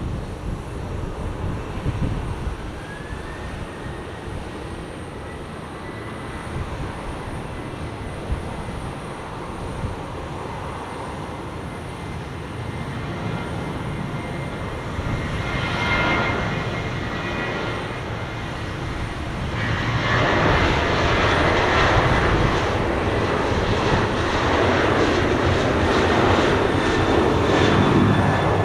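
Airliner engines running with a steady whine, growing louder about halfway through and loudest over the last third.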